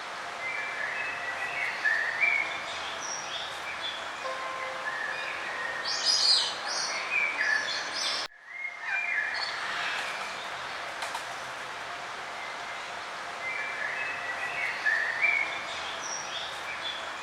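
Songbirds chirping and singing in short, repeated trilled phrases over a steady background hiss. About eight seconds in, the sound cuts out briefly and the same phrases start again.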